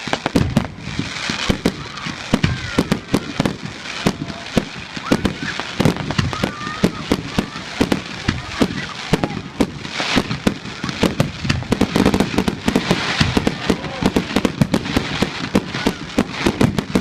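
Display fireworks going off in a dense, continuous barrage: rapid sharp bangs, several a second, with no pause.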